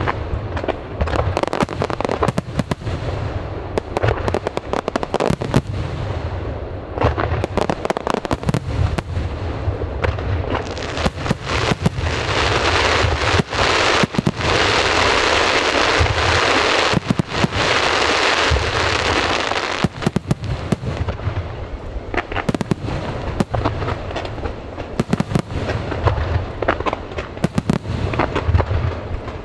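Aerial fireworks bursting in rapid succession, many sharp bangs close together. About eleven seconds in the bangs merge into a dense, continuous rush of crackle and hiss that lasts roughly ten seconds, then the separate bangs return.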